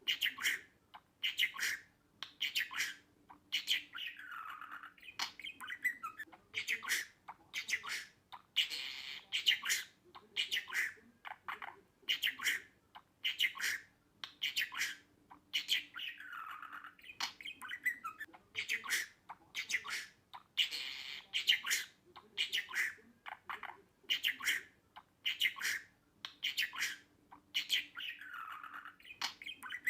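Budgerigar chirping and squawking in quick, short, sharp calls, several a second with brief pauses, the same run of calls coming round again about every twelve seconds.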